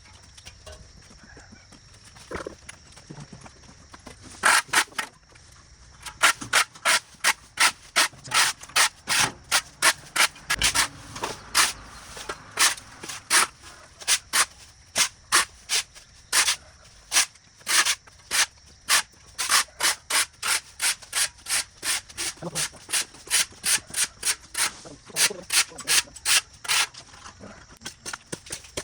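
Rhythmic scraping strokes, about two to three a second, starting a few seconds in and stopping shortly before the end, over a faint steady high-pitched hum.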